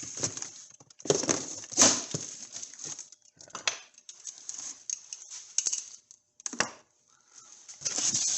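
Packaging being handled and pulled open as the kit is unpacked: irregular bursts of rustling and crinkling with a few short knocks, pausing briefly near the end.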